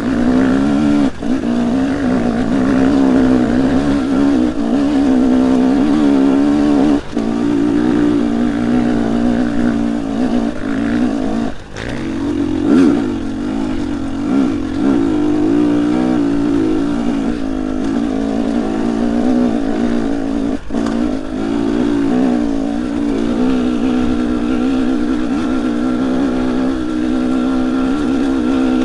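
Dirt bike engine running under constantly changing throttle, its pitch rising and falling as it is ridden over trail, with a few brief drops in level where the throttle comes off.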